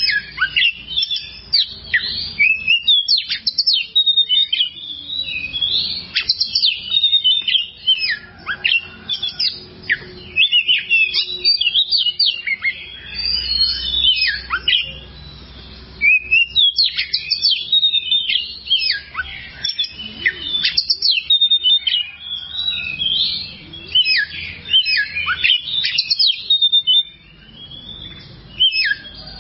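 Oriental magpie-robin (kacer) singing a fast, varied song of sweet whistles, trills and harsh chattering notes, with short pauses about halfway through and near the end.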